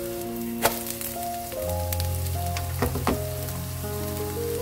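Shredded-carrot pancake sizzling as it fries in oil in a pan, with a few sharp clicks, the loudest about a second in. Background music with held notes plays over it.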